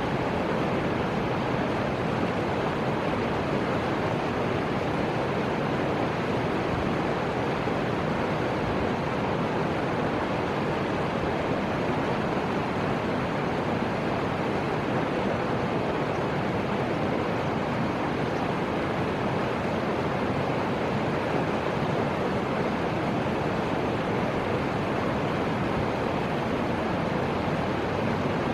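Steady rushing of the Fuji River's flowing water, an even hiss-like wash that does not change.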